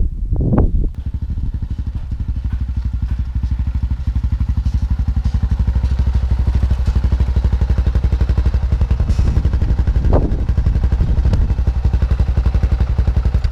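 Yamaha Ténéré 3YF motorcycle's single-cylinder engine running steadily with an even, rapid thump of firing pulses, then cut off abruptly near the end.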